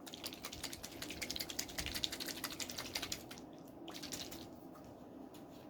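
Small bottle of 20-micron diamond emulsion being handled: a rapid run of light clicks and rattles for about three seconds, then fainter scattered ticks.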